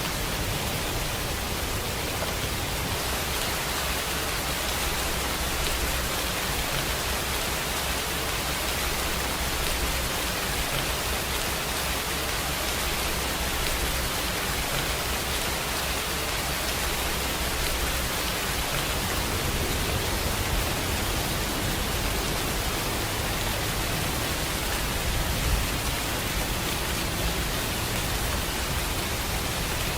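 Steady rainfall: an even, unbroken hiss of rain with no pauses or changes in strength.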